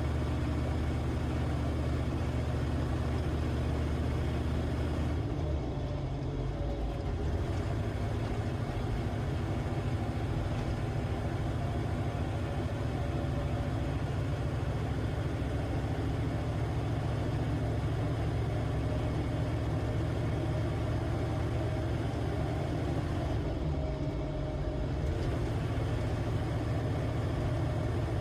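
Humvee's V8 diesel engine running on the move, a steady low drone whose pitch shifts about six seconds in and again later, as with a gear or speed change.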